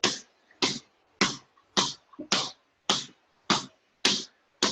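A basketball being dribbled one-handed on a hard floor: steady single bounces about every 0.6 seconds, nine in all.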